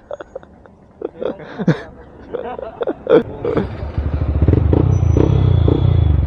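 A motorcycle engine comes in loudly about four seconds in and runs steadily with an even low pulsing, preceded by a few brief voices.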